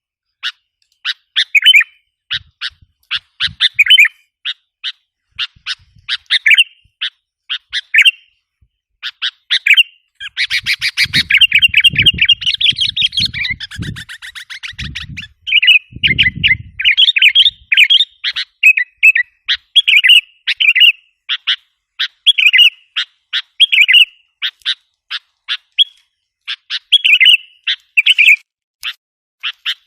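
Sooty-headed bulbul (kutilang) lure call: sharp chirps repeated in quick phrases, breaking into a dense run of rapid, agitated chattering about ten seconds in, with a few low thumps under it.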